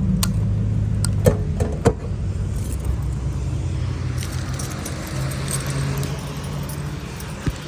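Sharp metallic clicks and a short rattle from a gas station fuel nozzle and filler cap being handled, over a steady low hum; a soft hiss follows, with one more click near the end.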